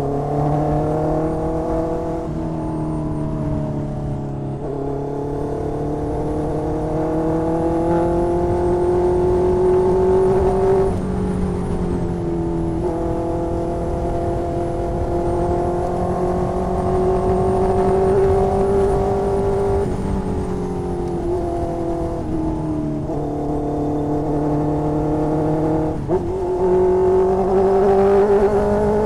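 2020 Honda CB650R inline-four engine running through an SC Project exhaust while riding. Its pitch climbs and falls with the throttle and steps sharply at several gear changes.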